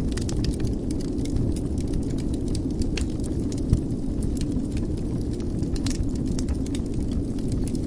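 Wood fire burning in a fireplace: a steady low rumble of the flames with frequent small crackles and pops, one louder pop near the middle.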